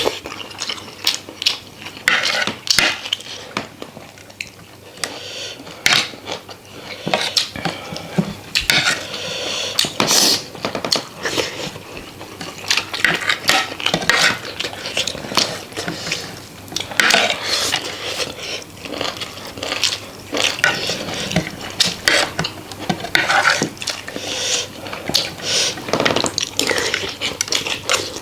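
Spoons and dishes clinking and scraping irregularly against plates and bowls as rice and curry are served and mixed for eating.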